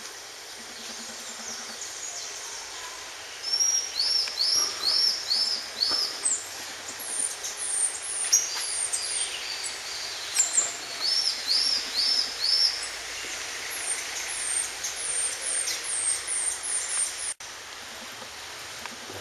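Songbirds singing in trees: runs of four or five quick, high, repeated chirps, some phrases higher-pitched than others, over a steady background hiss. The song starts a few seconds in and cuts off abruptly near the end.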